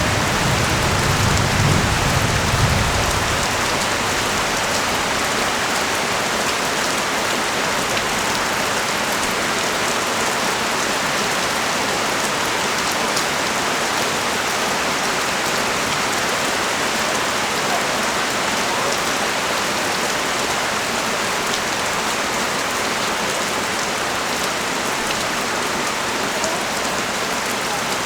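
Steady rain falling in a dense, even hiss, with a brief low rumble in the first three seconds.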